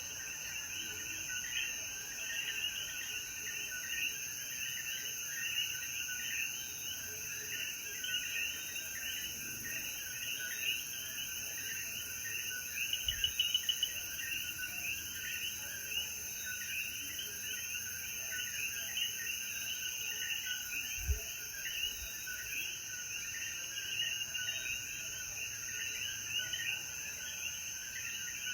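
Night chorus of many coquí frogs calling at once, short rising calls overlapping without pause, over a steady high-pitched insect trill.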